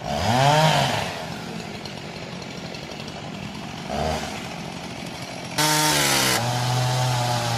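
Two-stroke chainsaw revved up and back down twice, then opened up and held at a steady high speed from about three-quarters of the way in.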